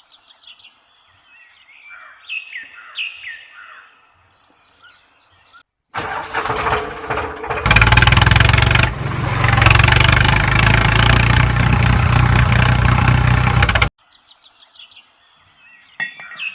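Birds chirping for the first few seconds, then a small diesel engine is cranked, catches and runs loudly and steadily for about six seconds before the sound cuts off abruptly; faint bird chirps follow.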